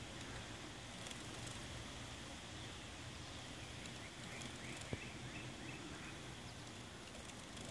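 Faint outdoor ambience with a quick run of small-bird chirps about three and a half seconds in, and a single sharp tap a second later.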